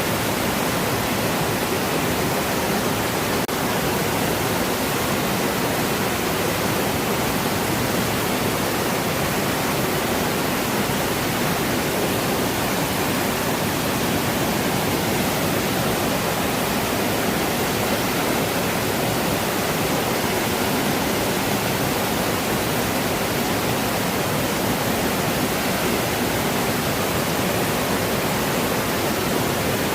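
Falling water rushing in a steady, unbroken hiss with no changes.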